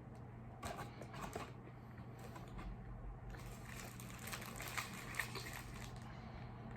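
Close-up chewing and wet mouth sounds of someone eating, in two spells of fine crackly clicks: a short one about half a second in and a longer, denser one from about three to six seconds in.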